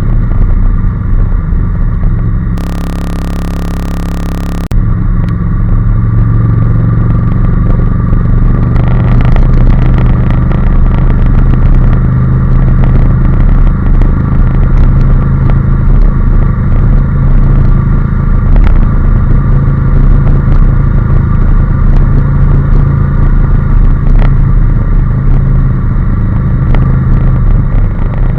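Honda NC750S's parallel-twin engine running steadily at cruising speed. For about two seconds near the start, the engine sound drops out and gives way to a flat hiss.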